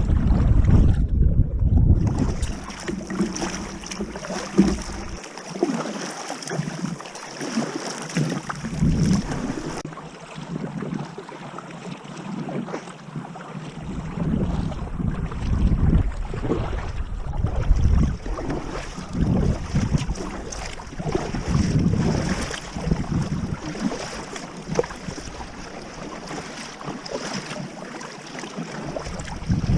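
Sea kayak on the move: water sloshing and splashing around the hull and paddle, with wind gusting on the microphone in an uneven low rumble that swells and fades every second or two.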